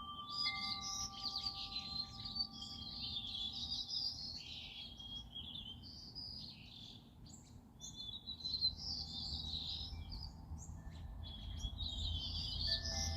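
Small songbirds chirping and twittering in a busy, continuous chorus. Wind chime tones ring out and slowly die away in the first few seconds, and again near the end.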